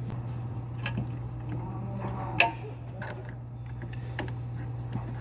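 Scattered light clicks and taps, with one sharp click about two and a half seconds in, over a steady low hum.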